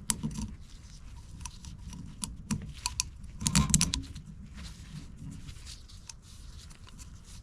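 Light clicks and handling noises of a plastic oil filter housing cap as a new oiled O-ring is worked by hand into its groove, with a brief cluster of louder clicks about three and a half seconds in.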